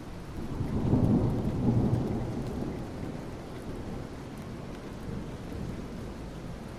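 Steady rain falling on asphalt, with a low rumble of thunder that swells about half a second in, peaks over the next second or so, and slowly fades away.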